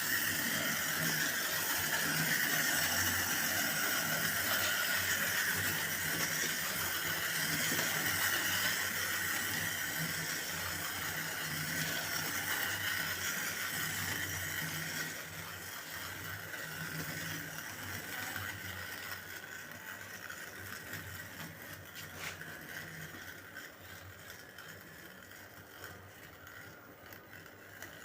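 A train running, with a steady rumble, rattle and squeal, fading gradually through the second half.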